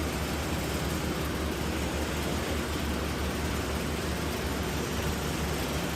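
Steady rush of air with a low hum from a running air-handling unit's blower, even and unbroken.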